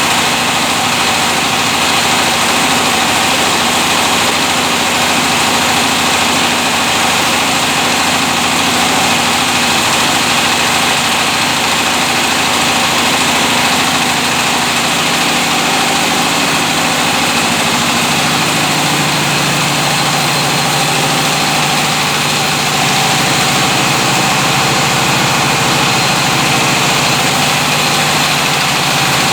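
12.5 kW diesel engine running steadily, driving a Maize Master MM500 maize mill. Its low note steps down slightly about two-thirds of the way through.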